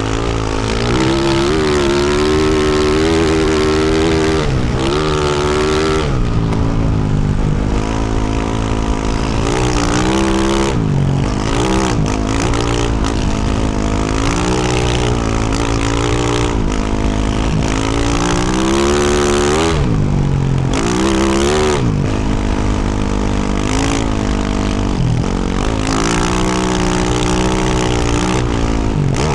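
Yamaha YZ450F four-stroke single-cylinder dirt bike engine through a Yoshimura RS-12 exhaust, under riding with the throttle opening and closing: the engine note climbs and drops again and again, with several short deep drops where the throttle is rolled off.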